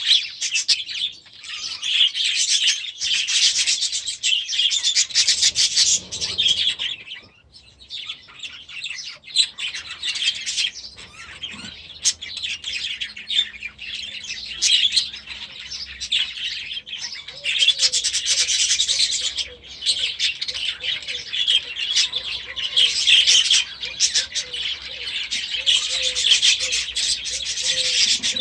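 A flock of young budgerigars chattering and chirping nonstop. The chatter thins out briefly about a quarter of the way in, then builds back up to a dense twittering.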